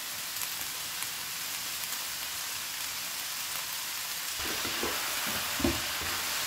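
Shredded cabbage, carrot and green beans sizzling in hot oil in a wok, a steady hiss. In the last couple of seconds a wooden spatula stirs and scrapes them, with a few knocks against the pan.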